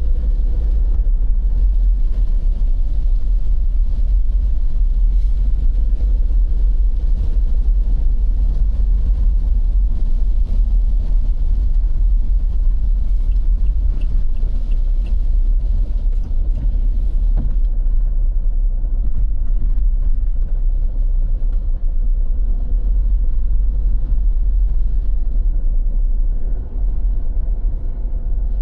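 A steady low rumble, loud and continuous, with no speech over it.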